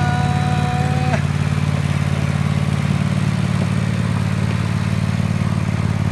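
Tractor engine running steadily with a low, rapid pulsing note. A separate held tone cuts off about a second in.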